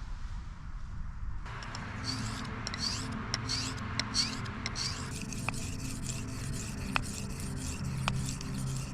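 Steel knife blade being drawn across an oilstone to sharpen it: a run of short rasping scrape strokes, starting about a second and a half in, over a steady low hum.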